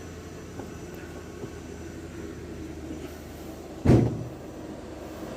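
A vehicle engine running with a steady low rumble, and a single loud thump about four seconds in.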